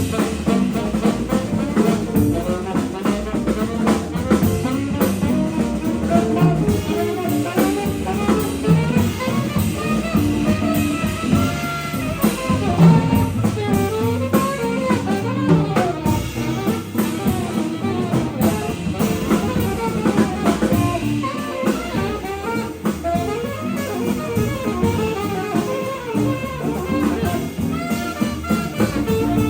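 Jazz quintet of alto saxophone, guitar, piano, bass and drum kit playing, a melodic line running over the drums and rhythm section.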